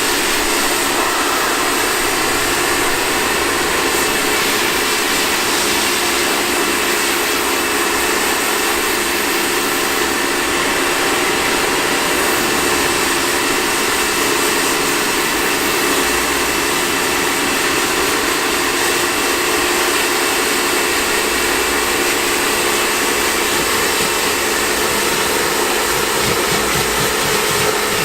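Pressure washer running steadily during the rinse of a car: an even motor whine with a constant hiss of spraying water.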